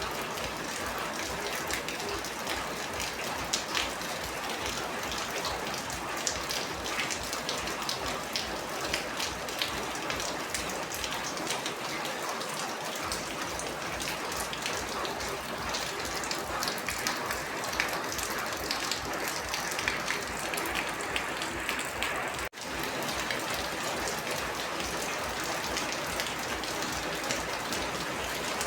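Steady rain, with many individual drops pattering sharply on a surface. The sound briefly drops out once, about three quarters of the way through.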